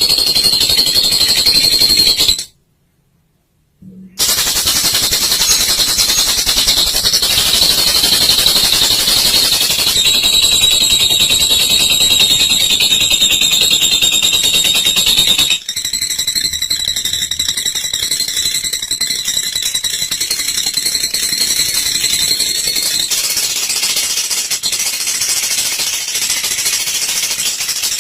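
Lovebird giving its long, very fast, high-pitched chattering trill, the 'ngekek' song. It breaks off into silence for about a second and a half early on, then resumes, with an abrupt change about halfway through.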